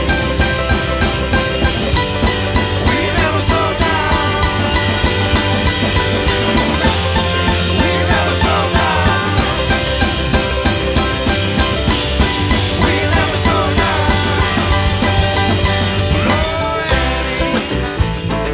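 Live string band with drums playing an instrumental passage: acoustic guitar, mandolin, banjo, fiddle and upright bass over a steady drum-kit beat, with sliding lead lines on top.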